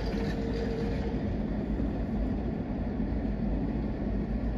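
Keisei Line electric train running past with a steady rumble of wheels on rail. A higher hiss fades after about the first second, and a short steady tone sounds near the start.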